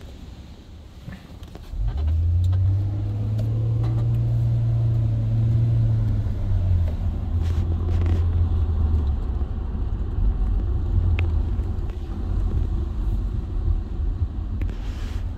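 Car engine heard from inside the cabin, starting up about two seconds in with a raised idle that settles lower after a few seconds into steady low running.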